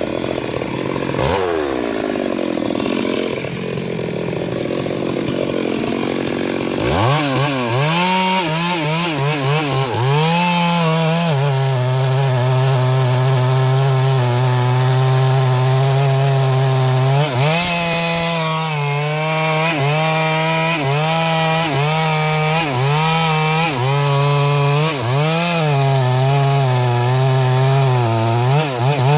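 Stihl MS 382 two-stroke chainsaw running at lower revs for the first several seconds. About seven seconds in it is opened up to full throttle and cutting into a sengon trunk, its pitch dipping and recovering again and again as the chain bogs under load in the wood.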